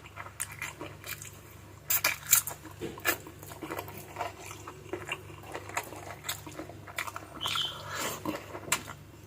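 Close-miked eating of adobo chicken feet: chewing and biting, with a dense run of wet clicks and small clinks against a plate, loudest about two seconds in.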